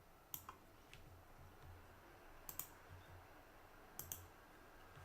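A few faint, scattered clicks of computer input at a desk, several in quick pairs.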